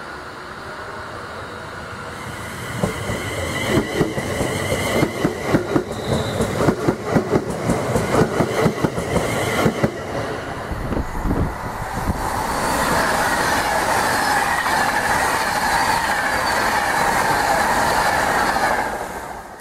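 Train passing on the track: rapid clickety-clack of wheels over rail joints for several seconds, then a loud steady rolling rush that cuts off suddenly near the end.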